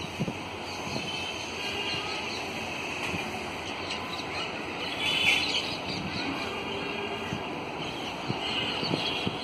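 Steady low rumble of a distant train approaching behind a WAP-7 electric locomotive, with birds chirping over it now and then, most clearly about five seconds in and near the end.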